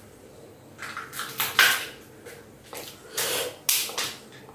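A person chewing food close to the microphone: a series of about six short, noisy mouth sounds, with a longer one just past the middle.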